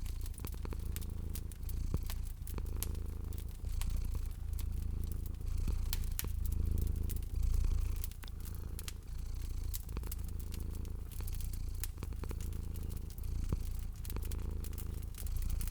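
Domestic cat purring steadily, the low purr swelling and easing about once a second with each breath, over the scattered crackles and pops of a fireplace fire.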